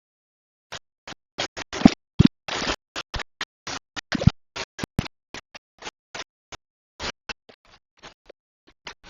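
Cooking utensils knocking and scraping in an irregular run of short clatters, with three heavier thuds around two and four seconds in.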